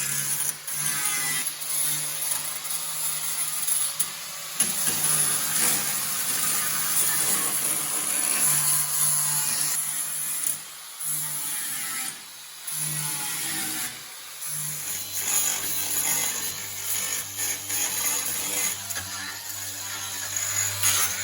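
Power tools running in short clips, with a loud, harsh hiss that stops and starts abruptly at several points.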